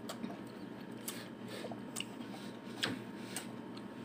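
A person chewing food, with a few faint sharp clicks and crunches spaced through it over a low steady room hum.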